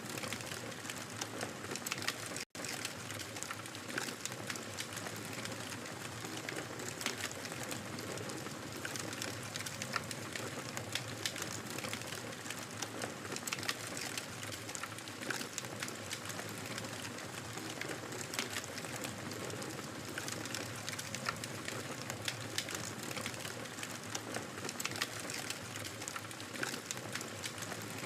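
Wood fire crackling steadily in a fireplace, a dense patter of small pops and snaps over a soft hiss, with a split-second dropout about two and a half seconds in.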